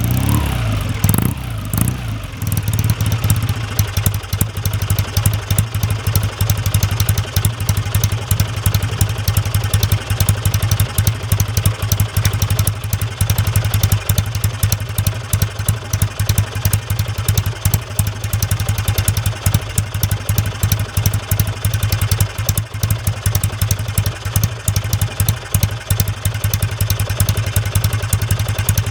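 Kawasaki W1SA's parallel-twin engine through its exhaust. A throttle blip falls away in the first two seconds, then the engine settles into a steady, loud idle with an even, rapid pulse.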